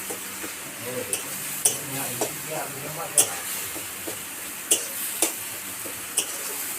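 Chicken curry sizzling in a pan while it is stirred, with the spoon scraping and knocking against the pan about seven times.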